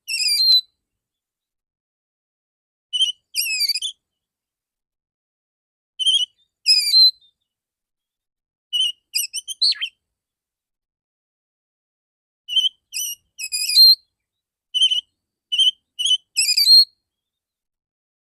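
Male oriental magpie-robin singing: short bursts of loud, sharp whistled notes, about six phrases with silence between, coming closer together in the last third.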